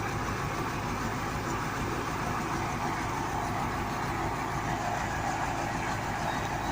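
Delivery truck engine idling steadily.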